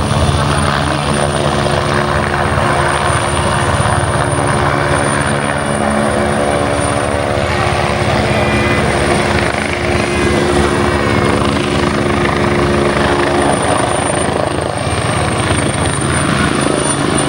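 Helicopter hovering, its rotor and engine making a steady, continuous hum with a thin high whine over it.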